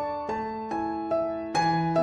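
Soft, slow piano music: single notes struck about every half second and left to ring, with a low note entering near the end.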